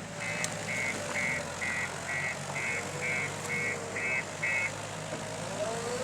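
JCB 3DX backhoe loader's reversing alarm beeping about twice a second, stopping near the end, over its diesel engine running.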